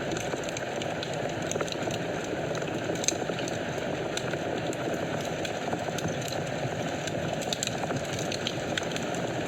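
Wood fire in a fireplace burning with a steady rushing hiss and frequent small crackles and pops, one sharper pop about three seconds in.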